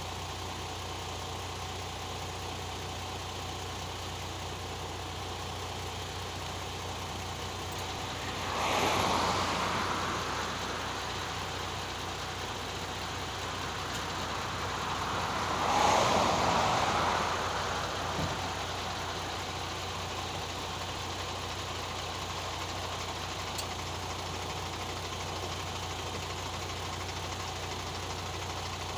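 Semi truck engine idling steadily with a low hum. Twice, about nine and sixteen seconds in, a louder rushing sound swells up and fades away.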